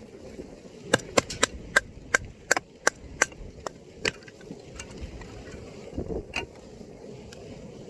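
A quick, irregular run of about a dozen sharp knocks, struck one after another over about three seconds, then a softer thump and one more knock about six seconds in.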